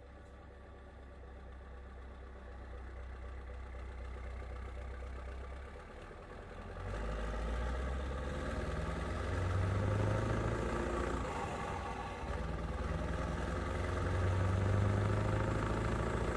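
Scania R620 truck's V8 diesel engine running, growing louder about seven seconds in and swelling twice.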